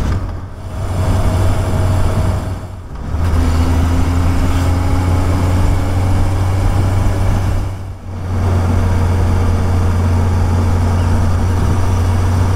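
Honda CB1000R's inline-four engine running steadily as the motorcycle rides along, a low steady drone. The sound drops away briefly twice, about three and eight seconds in.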